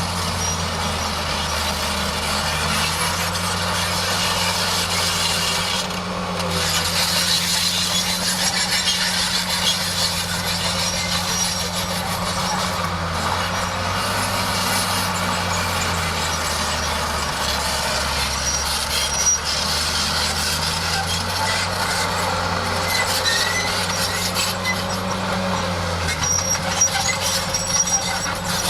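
Bulldozer's diesel engine running under working load, its engine speed dipping and recovering a few times, with a dense, high, noisy clatter over it from the machine at work.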